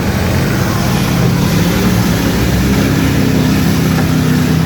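Off-road mud truck's engine running at steady, moderate revs as it pulls slowly through a mud pit.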